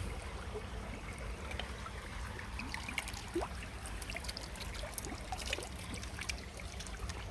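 Shallow stream trickling, with many small drips and clicks of running water scattered throughout.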